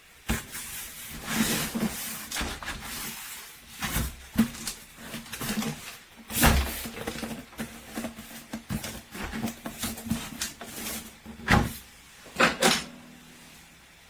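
Toy remote-control monster truck driving: its small electric motor runs with a low hum that comes and goes, among repeated plastic knocks and clatter, the loudest about six and a half, eleven and a half and twelve and a half seconds in.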